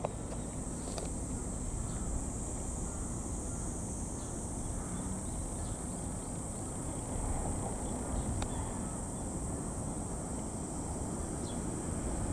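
Insects droning steadily in a high, even pitch over a low, constant outdoor rumble.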